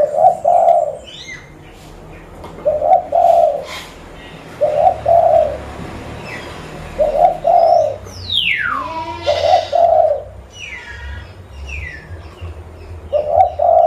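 Zebra dove (perkutut) cooing, a short two- or three-note phrase repeated six times, one every two to three seconds. Other birds chirp over it, one giving a long falling call about halfway through.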